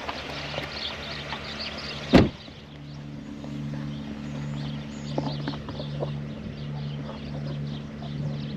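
Car engine idling with a low hum that pulses about twice a second. There is one sharp click about two seconds in, and faint bird chirps behind it.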